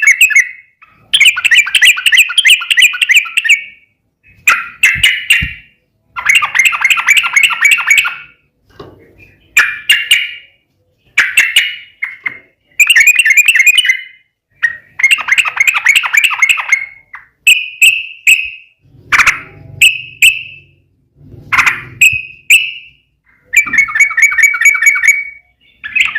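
Yellow-vented bulbul (trucukan) singing loud, fast bubbling phrases, each a second or two long, over and over with short pauses between them. This is the long rolling 'ropel' song, used as a lure to make other trucuk birds answer.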